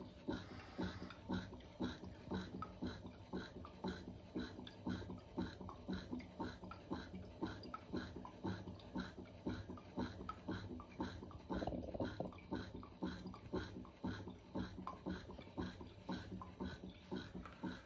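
An animal's short sounds repeating about twice a second, on and on.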